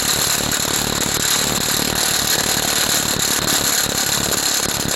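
Impact wrench hammering steadily on a carriage-bolt nut under a pickup bed, working the bolt loose.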